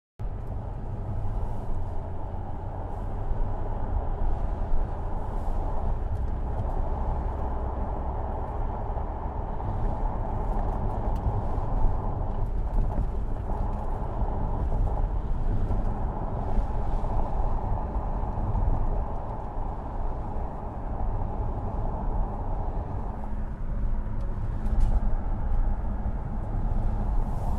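Jaguar F-Type rally car with its 2.0-litre four-cylinder petrol engine, driving off-road. It makes a steady low rumble of engine and tyres, with scattered sharp clicks throughout.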